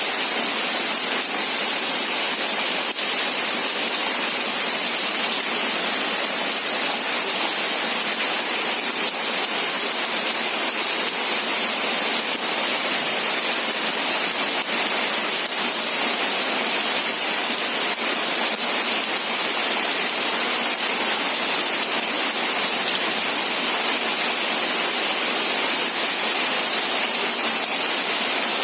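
Steady rain falling, an unbroken hiss with no distinct drops or pauses.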